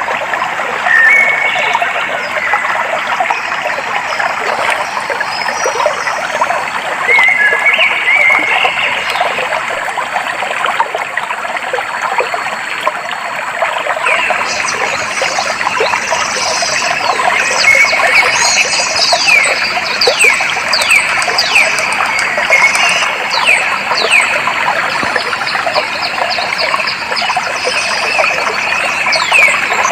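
Clear stream flowing with a steady trickling babble, and wild birds singing over it: a few short whistled notes early on, then from about halfway a long run of quick, repeated downward-sweeping chirps.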